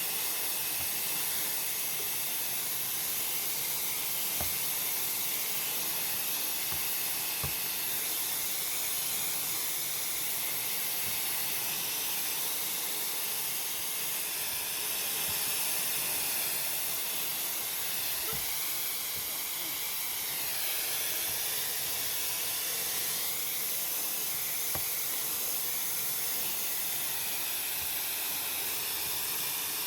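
Techmeri ultra-fast hair dryer running steadily, a constant airy hiss of blown air and fan.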